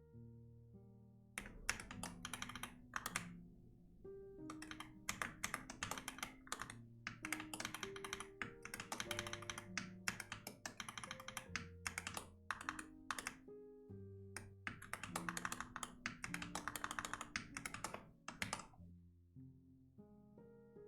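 Typing on a computer keyboard in long runs of rapid keystrokes, with brief pauses, over soft piano music. The typing stops a couple of seconds before the end, leaving only the piano.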